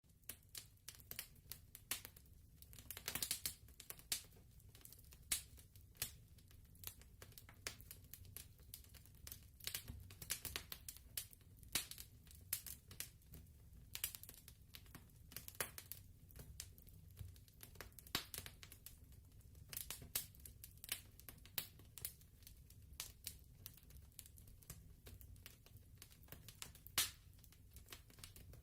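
Fireplace fire crackling: irregular sharp snaps and pops, several a second and uneven in strength, over a low steady rumble.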